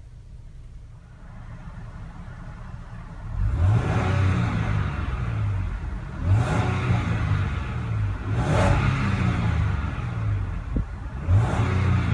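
Land Rover LR4's 3.0-litre supercharged V6 engine idling, then revved four times in quick blips, each rise in pitch falling back to idle.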